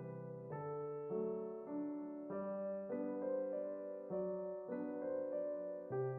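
Background music: soft piano, chords changing about every half second to second.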